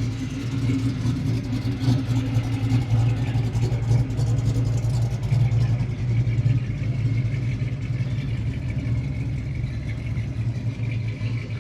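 A car engine idling, a steady low rumble that wavers a little in loudness.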